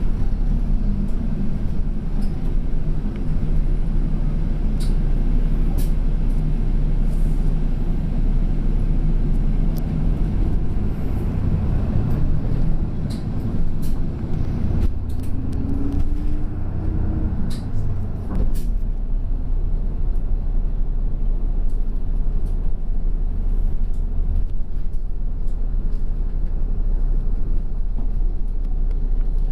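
Route bus heard from inside while driving: steady engine and road rumble with scattered rattles and clicks. About halfway through, the engine's pitch bends up and down for a few seconds, then the running settles lower.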